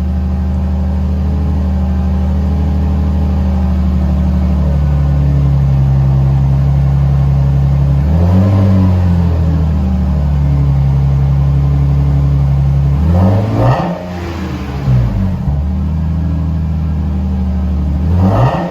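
Lexus IS300's 2JZ-GE straight-six running through a cheap aftermarket cat-back exhaust on the stock header: a steady idle, then a rev about eight seconds in, several quick blips a few seconds later, and another rev near the end.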